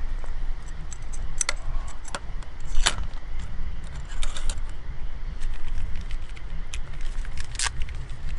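Scattered metal clinks and taps of utensils against camp cookware, a few sharper ones standing out, over a steady low rumble.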